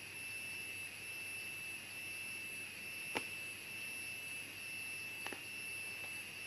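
Steady high-pitched drone of jungle insects, pulsing slightly, with two sharp clicks, one about three seconds in and a fainter one about two seconds later.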